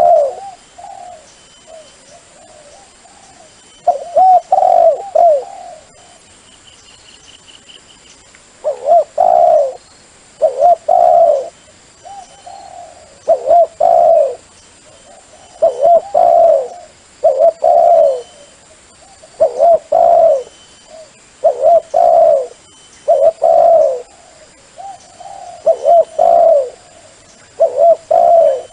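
Dove cooing: short phrases of rolling coos, repeated about every two seconds after a pause of a few seconds early on. It is a dove call played to lure wild doves.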